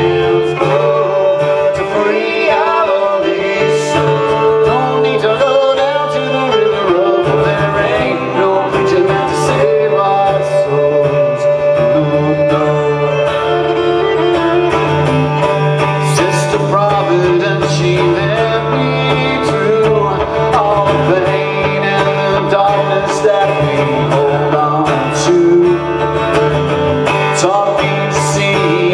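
Live acoustic folk music: a guitar accompaniment under a melody line that bends in pitch, playing continuously.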